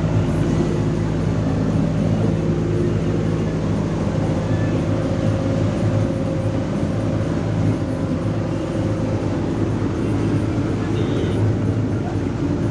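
Boat engine running at a steady pace, a continuous low drone heard on board.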